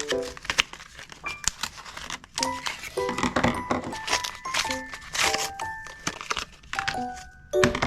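Packaging crinkling and tearing in quick, irregular handling noises as stationery items are unpacked, over soft background music with short plucked notes.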